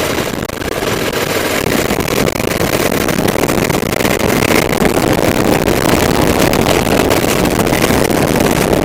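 Honda SLR 650 / FX 650 Vigor's 650 cc air-cooled single-cylinder engine pulling under acceleration, with wind noise on the helmet microphone. The sound dips briefly about half a second in, then grows steadily louder.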